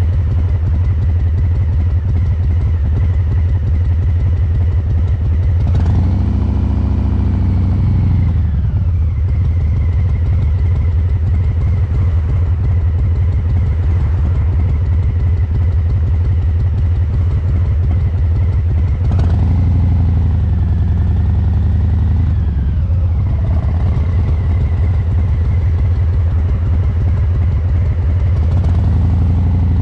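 Harley-Davidson Breakout 114's Milwaukee-Eight V-twin running through COBRA Neighbor Hater slip-on mufflers, tuned for a loping three-beat rhythm. The deep, steady exhaust beat swells as the revs rise and fall about six seconds in and again about nineteen seconds in, with a third rise starting near the end.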